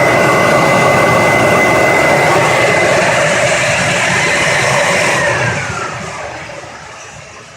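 Filtex FX775 twin-motor central vacuum power unit running at full power, a loud, steady whine from its two brushed motors. About five seconds in it is switched off, and the whine falls in pitch as the motors spin down.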